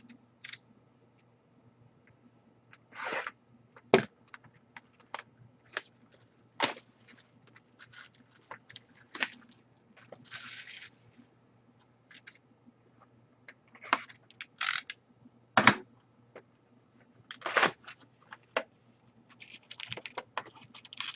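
Sealed trading card box being opened by hand: scattered clicks and short crinkling, tearing rustles of plastic wrap and cardboard, with a longer tearing rustle about halfway through.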